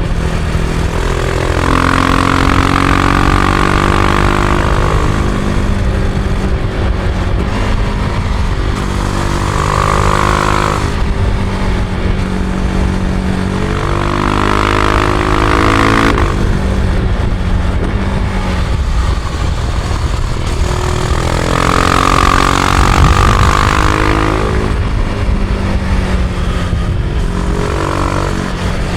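Husqvarna Vitpilen 701's single-cylinder engine under way, its pitch rising and falling several times as the bike accelerates and eases off.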